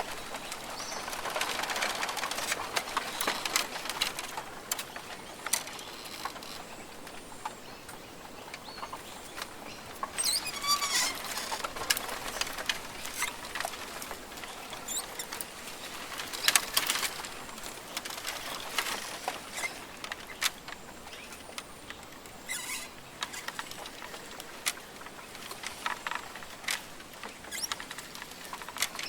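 Rainforest ambience: scattered crackling clicks and patters, with bird calls coming through at times, the clearest a warbling call about ten seconds in. A faint steady high insect tone sits underneath.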